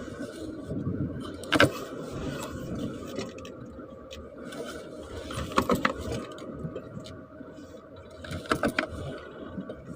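Sharp metallic clicks and taps from tools on car parts: one about a second and a half in, then short clusters near the middle and near the end, over a steady low background rumble.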